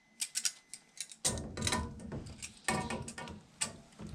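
Clicking and clatter of hand tools on metal: a few sharp clicks, then denser rattling from about a second in.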